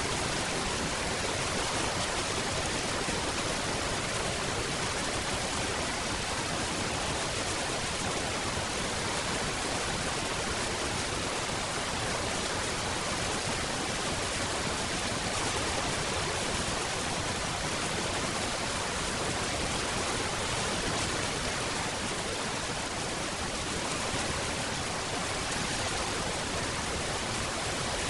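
Steady rain falling: an even, unbroken hiss with no separate drops, thunder or other sounds standing out.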